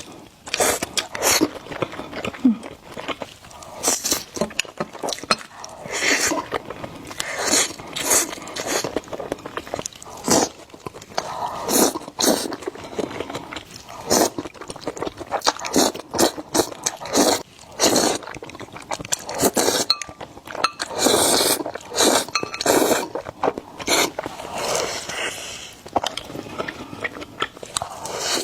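Close-miked eating of spicy instant noodles: long noisy slurps of noodles between quick, wet chewing and mouth smacks, continuing without a break.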